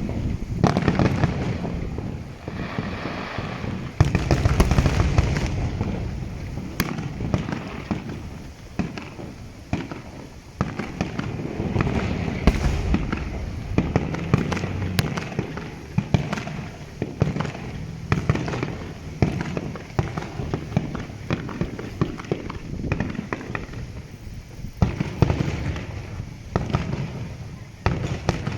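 Fireworks display: aerial shells bursting one after another, with heavy low booms and a crackle of many sharp pops.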